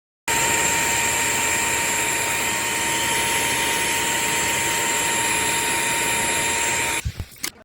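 Bissell CrossWave OmniForce wet-dry floor cleaner running: a steady motor whine over a rushing airflow noise. It starts abruptly and cuts off a little before the end, followed by a few short knocks.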